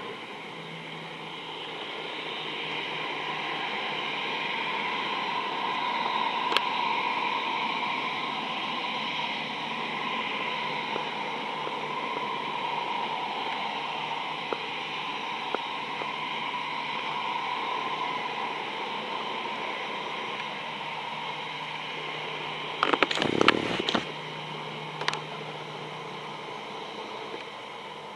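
Airbus A320 jet engines heard as a steady hiss with a whine on top, swelling over the first few seconds and slowly easing off. A brief clatter of loud knocks comes near the end.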